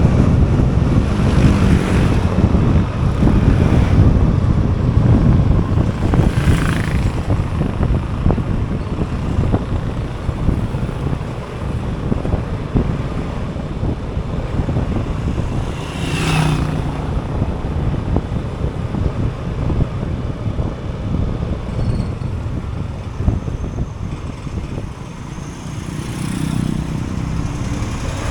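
Motorbike riding noise: wind buffeting the microphone over the engine and tyres, with two brief sweeping sounds, about a quarter and halfway through.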